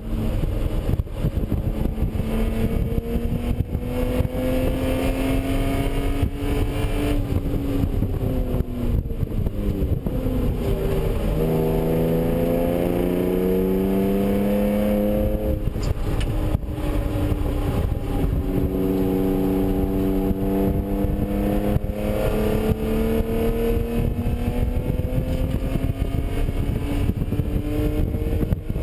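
BMW E36 M3's straight-six engine heard from inside the cabin under hard track driving, its pitch climbing as the car accelerates and dropping away when the driver lifts and brakes. About halfway through the note breaks off suddenly, then picks up and climbs again, all over steady wind and road noise.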